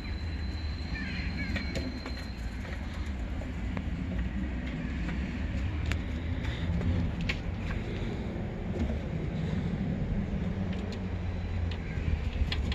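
Outdoor street ambience: a steady low rumble with a few bird chirps about a second in and scattered light clicks.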